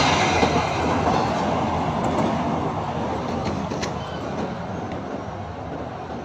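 Passenger train's coaches rumbling across a steel truss railway bridge, the sound fading steadily as the last cars pass and the train moves away. There are a few faint clicks about two to four seconds in.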